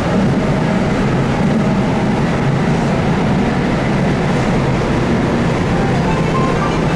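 Keihan 8000-series electric train running, heard from on board: a steady rumble of wheels on rail, with a few faint short whining tones.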